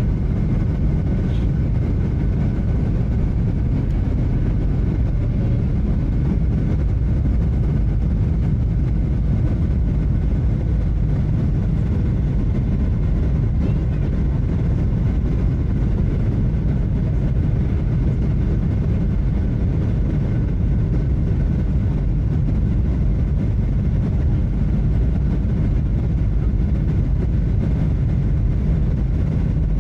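Steady cabin noise inside a Boeing 737-800 on approach: a low rumble of airflow and its CFM56 turbofan engines, with a faint high whine held at one pitch.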